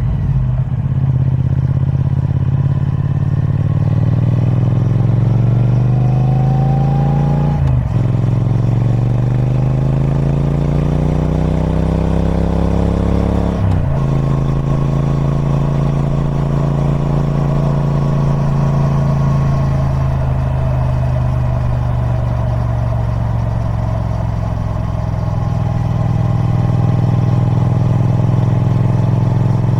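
Triumph Speed Twin 1200's parallel-twin engine through its stock exhaust, accelerating through the gears. The revs climb, break for a shift about eight seconds in, climb again to a second shift about fourteen seconds in, then settle into a steady cruise that eases off around twenty seconds and picks up again near the end.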